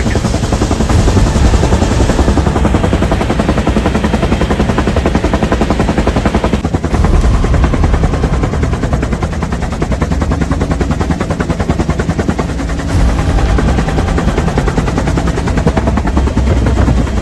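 Bell UH-1 Huey helicopter in flight: its two-bladed main rotor beats in a fast, steady thumping over the constant drone of the engine.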